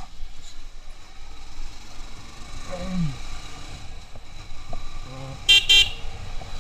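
A vehicle horn gives two short, loud toots about five and a half seconds in, over steady road traffic and engine noise.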